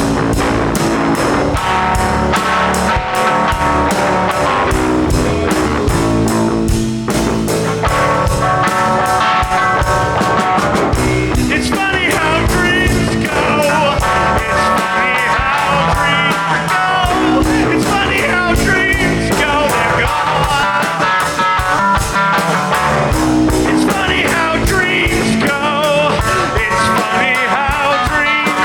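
Rock band playing an instrumental passage: a lead guitar line with bent, wavering notes over bass and drums, the lead growing busier about twelve seconds in.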